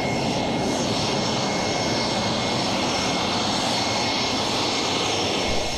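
Saab JAS 39 Gripen's single Volvo RM12 turbofan running steadily: an even jet rush with a thin high whine, holding level with no rise or fall in pitch.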